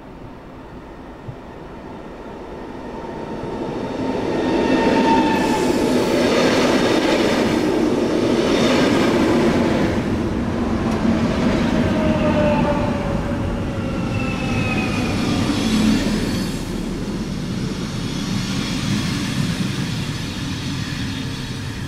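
Electric passenger train running in along a station platform. The noise builds over the first few seconds and stays loud as the coaches pass close by, with several high whines sliding down in pitch as the train slows.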